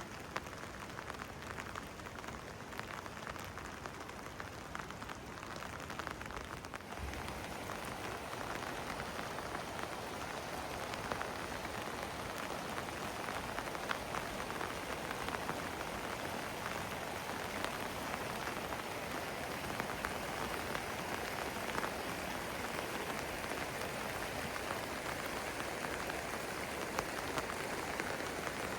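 Steady rain falling, with many sharp ticks of single drops landing close by; it grows a little louder about seven seconds in.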